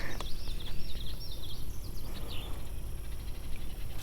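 Songbird chirping in short, quick notes, a run of them at the start and a few more about two seconds in, over a steady low outdoor rumble.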